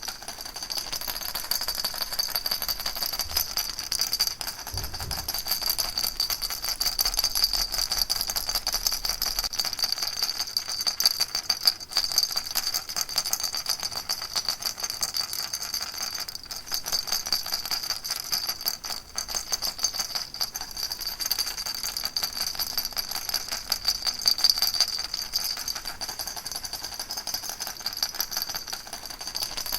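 Baby rattle shaken continuously: a steady, dense rattling of many small beads, with no pauses.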